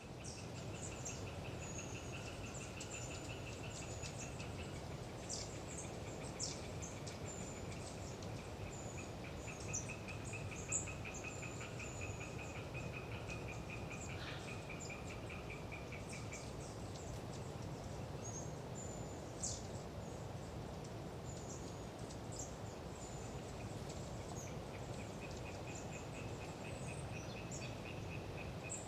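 Eastern tree frogs (Hyla orientalis) calling in long trains of rapid rattling pulses, several seconds at a time, over steady wind noise in the trees. Thin, high, short calls of long-tailed tits are scattered throughout.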